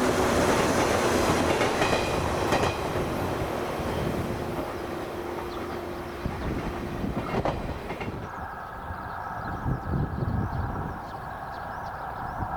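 Toyama Chihō Railway electric train running past on the track, its running noise with a steady hum and a few wheel clicks over the rail joints, fading as it moves away.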